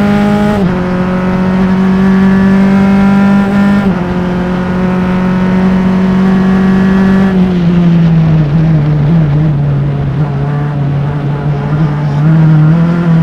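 Open-wheel formula race car's engine, close-miked, running hard at high revs. It dips slightly twice, then eases off about seven seconds in with the revs dropping and wavering. It picks up again near the end.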